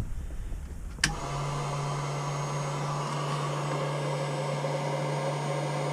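A 12-volt hairdryer used as a windscreen demister switches on with a click about a second in, then runs steadily with a low motor hum and blowing air.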